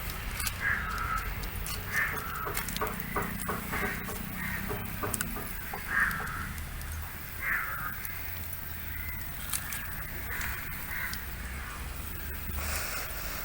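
Crows cawing repeatedly, short harsh calls every second or so, some overlapping.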